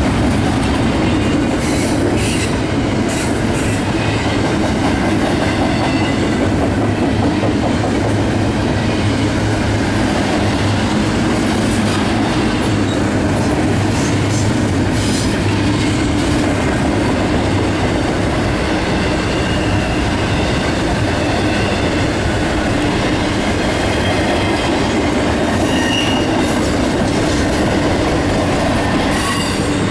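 Train cars rolling steadily past on the track with a continuous rumble and the clickety-clack of wheels over rail joints. Faint, brief wheel squeals come and go.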